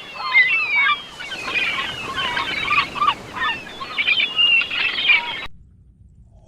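A flock of birds calling together: many overlapping short honking and chattering calls that rise and fall in pitch, cutting off abruptly about five and a half seconds in.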